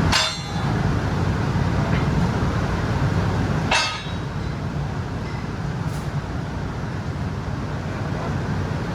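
Steady low rumble of factory machinery, with two sharp metallic clanks: one near the start and one about four seconds in.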